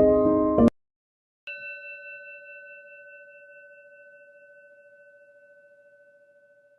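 Piano music cuts off abruptly in the first second. After a brief silence, a single bell-like tone is struck and rings on, fading slowly with a gentle wavering.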